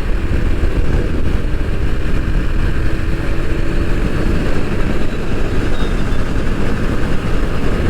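Bajaj Pulsar NS 160 motorcycle riding at a steady cruising speed: the engine running evenly under a heavy low rumble of wind on the microphone.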